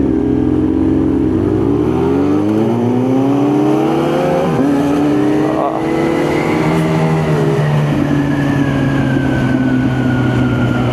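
Kawasaki Z900 inline-four motorcycle engine accelerating through the gears. The revs climb and drop back at three upshifts, then hold steady at cruising speed.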